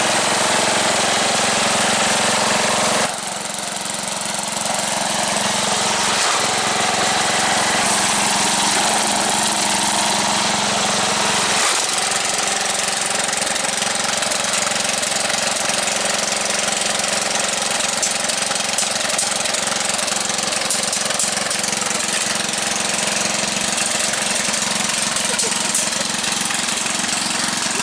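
MTD lawn tractor engine running steadily while the tractor is driven off-road. The sound drops suddenly about three seconds in, then changes again about twelve seconds in.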